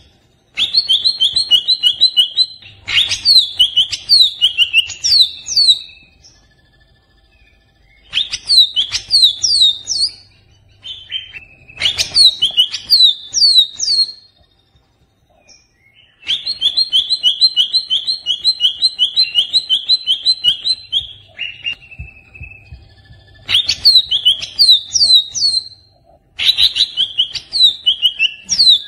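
Greater green leafbird (cucak ijo) singing in loud phrases: fast runs of even repeated notes, then quick falling whistled sweeps, with pauses of one to two seconds between phrases. It is a recording of a stressed cucak ijo, used as a lure (pancingan) to set other cucak ijo singing.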